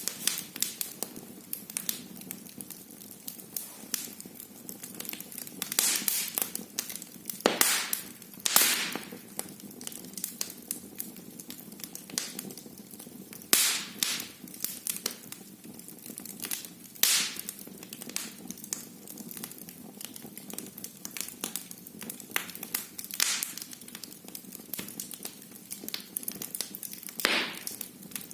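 Wood fire burning in a fireplace, with a steady low hiss and frequent irregular crackles and sharp pops of burning logs, some much louder than the rest.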